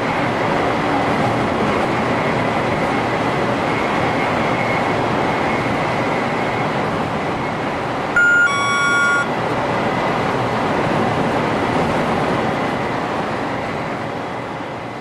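Steady rushing running noise inside the driver's cab of a 500 series Shinkansen travelling at speed, with a short electronic chime about eight seconds in; the noise fades near the end.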